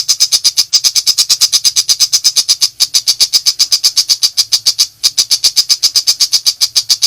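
Long-tailed shrike (pentet macan) in a rapid 'nembak' call burst: a fast, even run of sharp, high notes at about ten a second, broken by short pauses about a second in, near three seconds and near five seconds.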